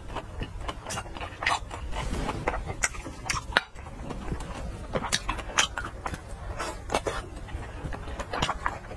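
Close-miked chewing of a large red Chinese sausage: wet mouth clicks and smacks in quick, irregular succession, with one sharp click about three and a half seconds in.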